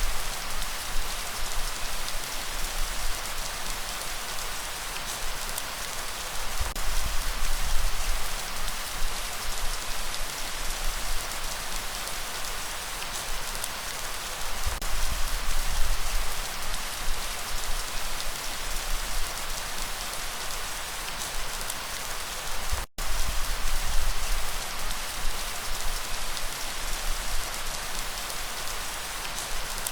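Steady heavy rain, a dense even hiss, with low rumbling swells coming every seven or eight seconds. The sound drops out for an instant about three-quarters of the way through.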